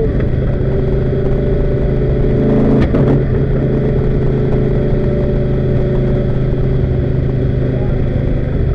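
Daytona Coupe's V8 engine running at steady, moderate revs, after slowing just before. There is a brief knock about three seconds in.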